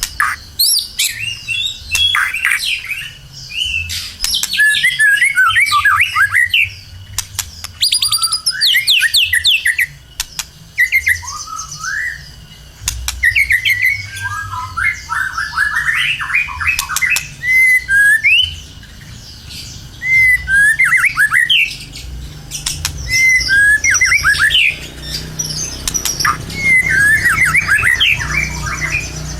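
White-rumped shama (murai batu) in full, vigorous song: loud phrases of rapid, varied whistles, slurred notes and harsh squawk-like calls, each lasting a second or two, with short pauses between them.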